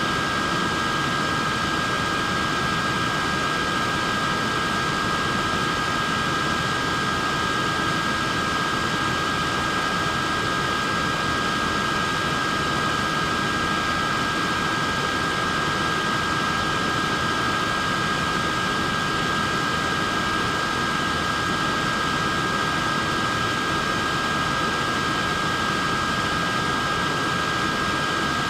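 Neck fan running steadily: an even rush of air with a constant high whine from its small motor and blades.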